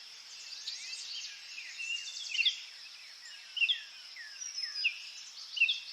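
Small birds chirping, short high calls that mostly slide downward, coming irregularly over a steady faint hiss.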